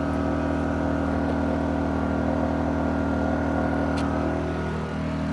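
Wen 1250 inverter generator running at a steady speed, an even engine hum. A single short click about four seconds in.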